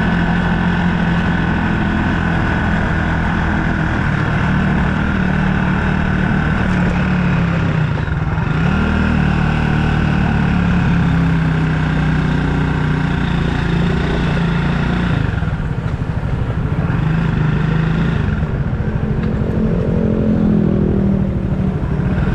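Motorbike engine running while riding along, its note dipping and rising a few times as the speed changes.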